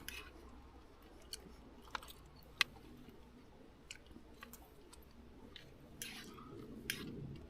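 A person quietly chewing a mouthful of beef stew, with a few faint sharp clicks spread through.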